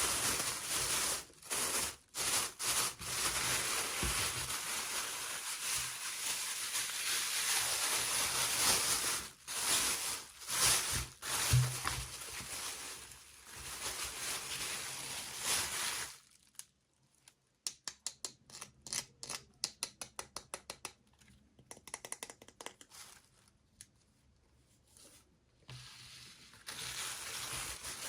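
Toy packaging being handled and opened: steady rustling and scraping for about sixteen seconds, then a run of light, quick clicks and taps, and rustling again near the end.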